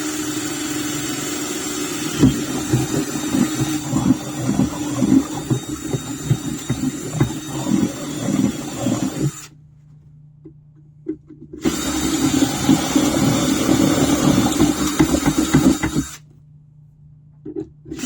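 Electric drill boring a hole through aluminum with a fresh, smaller bit. It runs steadily with a crackle of the bit cutting, stops for about two seconds, runs again for about four seconds, then gives a short burst near the end.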